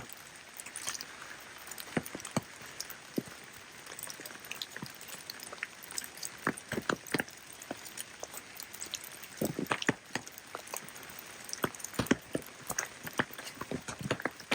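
Rain falling as a steady hiss, with irregular sharp drops tapping close by; a few louder taps come near the middle and near the end.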